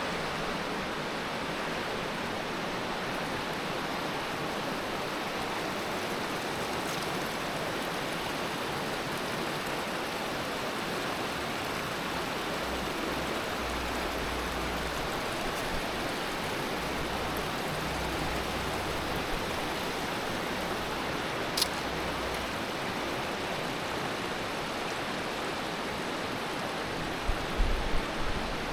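Steady rushing of river water, an even hiss with no let-up. A single sharp click comes about three-quarters of the way through, and a few low bumps come near the end.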